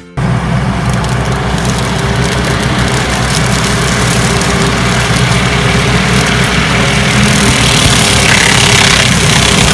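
Skid steer running with its mounted hydraulic weed-eater attachment, a loud steady engine sound that grows slightly louder toward the end.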